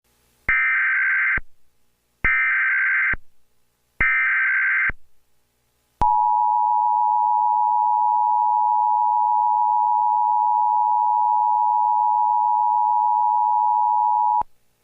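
Emergency Alert System tones: three short bursts of SAME digital header data, each about a second long and spaced about two seconds apart. Then comes the steady two-tone attention signal, held for about eight seconds, which announces that an alert message follows.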